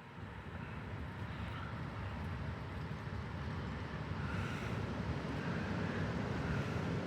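Storm wind gusting and buffeting the microphone, a low rumbling rush that builds steadily in strength.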